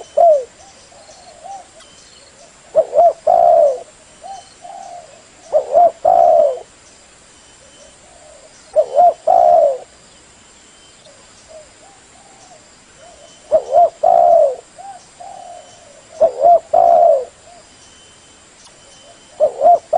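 Spotted dove (tekukur) cooing: a loud, low, hollow call phrase repeated about every three seconds, with softer coos between the phrases.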